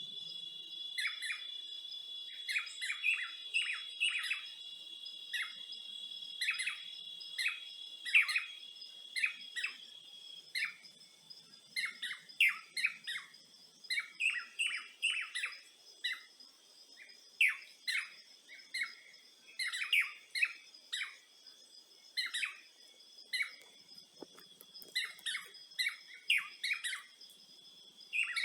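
Many birds chirping in short, quick, irregular calls. Under them runs a steady high-pitched insect drone, which is stronger for the first ten seconds or so.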